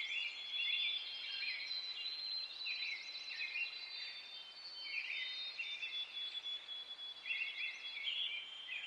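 A natural chorus of high-pitched animal calls: steady high trilling overlaid with short chirps that repeat every second or so.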